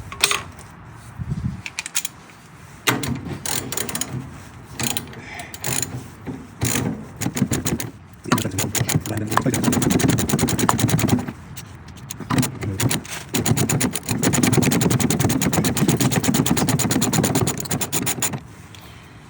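Ratchet wrench clicking rapidly on the seized bottom mount of a Porsche 356 rear shock absorber, in a run about eight seconds in and a longer one from about twelve seconds in, with a few knocks before.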